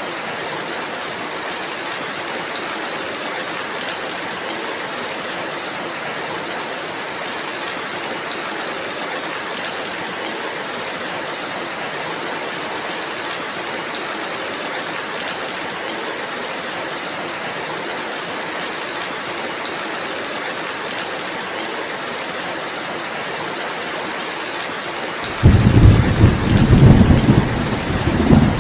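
Steady rainfall, an even hiss. Near the end a loud, low rumble of thunder starts suddenly and continues.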